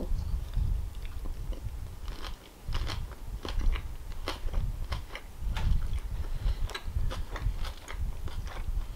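Chewing a mouthful of lettuce-wrapped sausage sandwich: crisp lettuce crunching with many small wet mouth clicks, close to the microphone.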